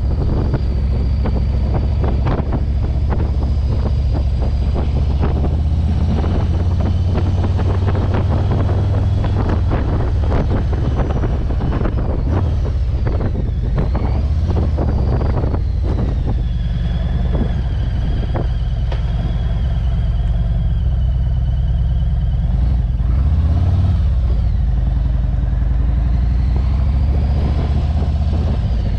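Motorcycle engine running steadily during a ride, a low rumble, with wind buffeting the microphone in irregular gusts.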